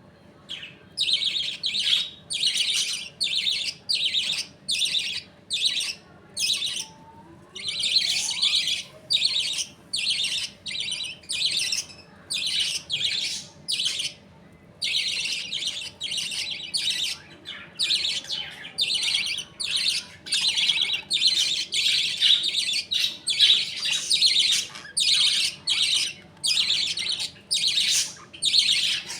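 Budgerigars calling in quick, high-pitched repeated calls, about two a second, starting about a second in and keeping up a steady rhythm.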